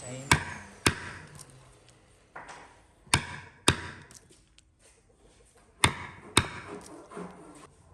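Chopping blows on wood: six sharp strikes, in three pairs about half a second apart, the pairs repeating about every two and a half seconds.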